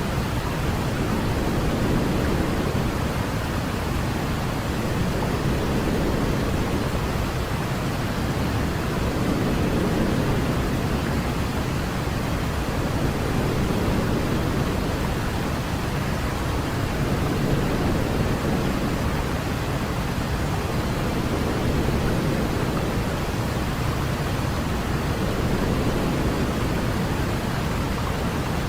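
Steady sleep-aid noise for a baby, a continuous hiss heavier in the low end than the high. It swells gently and slowly about every four seconds.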